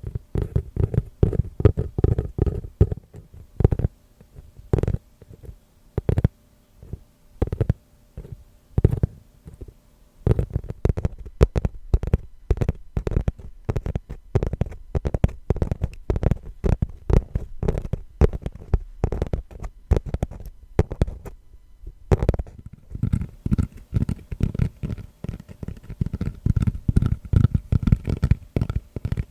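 ASMR tapping on a trivet: slower taps with low thuds at first, then quick, dense tapping from about ten seconds in. After a short pause near the end, the tapping moves to a tatami mat, with a softer, rubbing texture.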